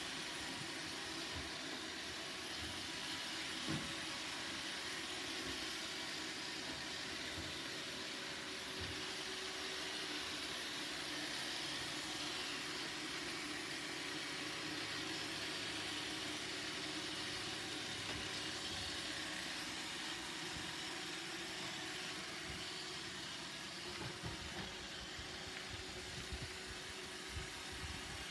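Roomba robot vacuum running: a steady whir of its motors and brushes, with a few short low knocks, most of them near the end.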